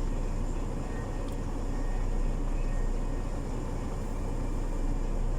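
Truck's diesel engine idling steadily, heard from inside the cab as an even low hum.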